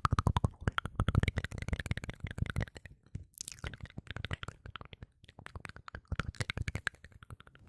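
Close-miked ASMR mouth sounds: rapid wet clicks and smacks of lips and tongue in dense runs, broken briefly by a short breathy hiss about three seconds in.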